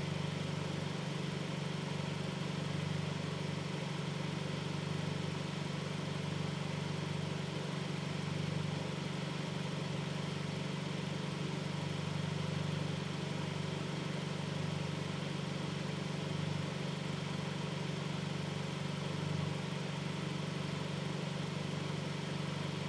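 10th-generation Honda Civic's engine idling: a steady low hum that holds even throughout.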